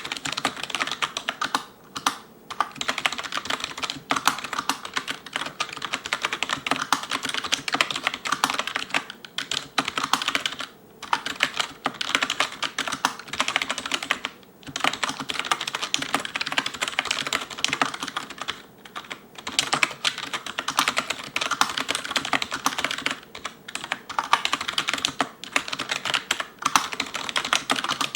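Fast touch-typing on an Elecom TK-FDM088TBK wireless membrane keyboard with cylindrical keycaps: a rapid run of soft key clacks, broken by short pauses several times.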